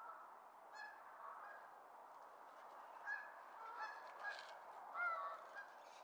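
Birds calling faintly: short honking calls, several in a row, over a faint steady hiss. The loudest call comes about five seconds in.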